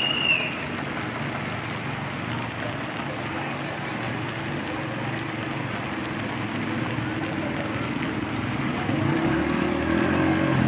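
Steady outdoor street noise, with a vehicle engine growing louder near the end and a short high chirp at the very start.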